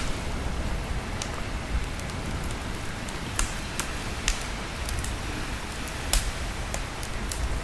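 Steady rain mixed with a crackling wood fire: scattered sharp pops over an even hiss and a low rumble.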